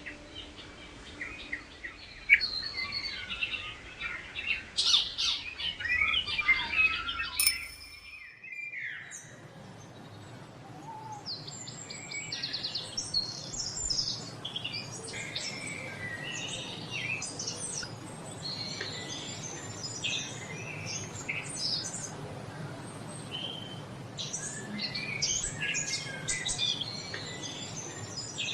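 Several birds chirping and singing in dense, overlapping short calls and trills. About eight seconds in, the sound cuts briefly to another stretch of birdsong over a steady low background.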